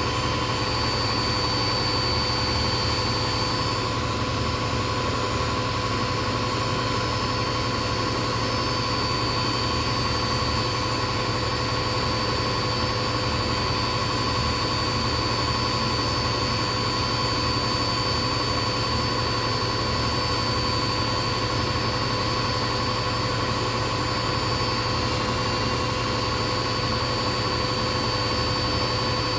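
Indesit washing machine spinning at a steady high speed, set to 1000 rpm: an even whine from the motor over the rumble of the drum.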